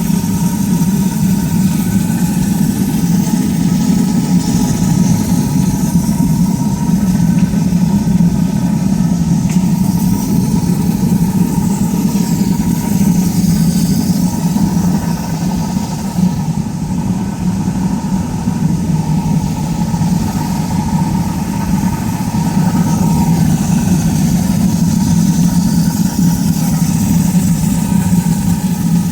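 Gas-fired furnace burning steadily: a loud, even burner and blower hum with a hiss above it, unchanging throughout.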